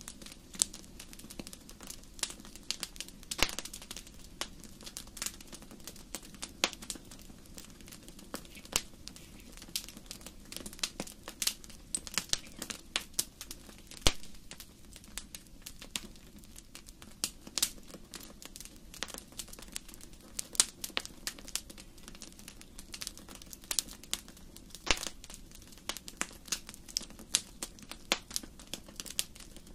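Wood fire in a fireplace crackling: irregular sharp pops and snaps over a low steady hiss, with one louder pop about fourteen seconds in.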